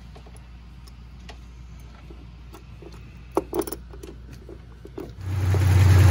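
Light metallic clicks of a screwdriver tightening hose clamps on the heater hoses. About five seconds in, the Ford Bronco II's 2.9-litre V6 comes in running at a steady idle, with a low hum that is the loudest sound. It is being run to check the new heater core's hoses for leaks.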